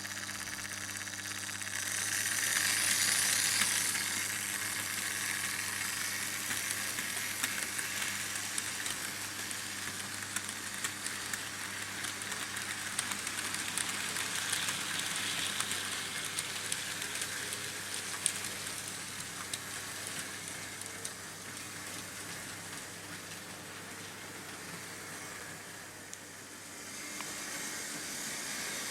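Märklin H0 model trains running on tinplate M-track: a steady metallic rolling rush with many faint clicks, over a steady low hum. The rush swells louder about two seconds in and eases off towards the end.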